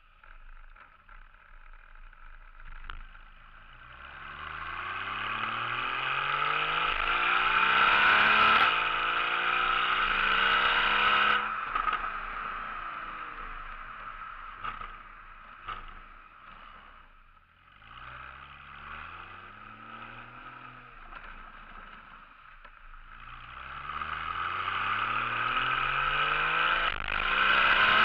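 Porsche 981 Boxster flat-six running through an aftermarket M&M exhaust, accelerating in three pulls. The engine note climbs in pitch, holds, then drops away each time, with the loudest pull in the first half.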